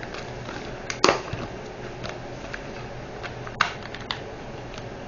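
Light clicks and taps of small plastic diamond-painting containers and drill bags being handled and set down, loudest about a second in and again a little past three seconds, over a faint steady hum.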